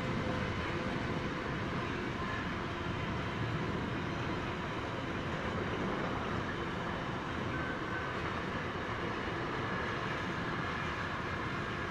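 Container freight train wagons rolling past: a steady, unbroken rumble of wheels on the track as the long rake goes by.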